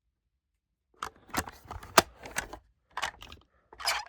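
Small diecast toy truck and trailer being handled and turned over, giving a string of irregular light clicks, taps and rattles of metal and plastic. It starts about a second in.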